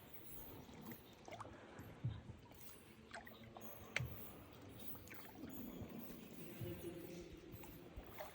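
Quiet water sounds of a paddled tour boat moving along an underground river: paddle strokes and dripping water, with scattered sharp clicks and knocks about once a second.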